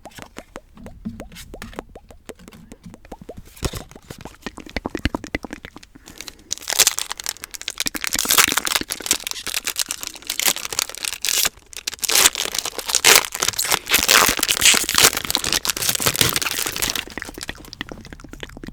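Crinkly foil Pokémon card-pack wrapper being handled: light rapid clicking and tapping for the first several seconds, then loud, dense crinkling and crackling of the foil from about six seconds in until near the end.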